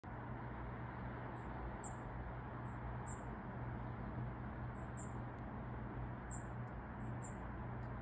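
Short, high-pitched bird chirps, often in quick pairs, repeating every second or so over a steady low hum and hiss.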